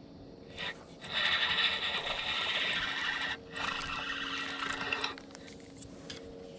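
Fishing reel being cranked, a whirring rattle in two spells with a short break between.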